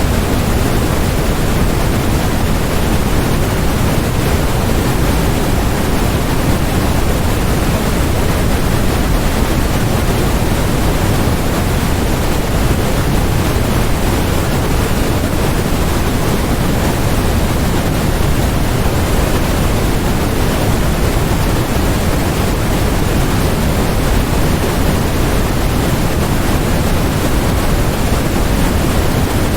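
Steady generated noise played as a white-noise focus track: a continuous, unchanging hiss and rush with no pattern. It is heavier in the lows than in the highs, as pink noise is.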